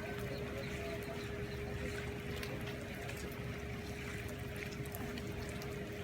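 Water splashing and trickling, with scattered small clicks, over a steady low rumble and a constant hum.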